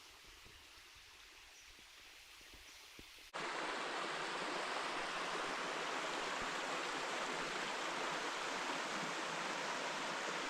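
Faint outdoor hush, then, after a sudden cut about three seconds in, the steady rush of falling water, loud and even.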